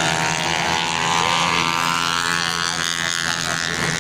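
Racing motorcycle engines running at high revs, their pitch rising and falling.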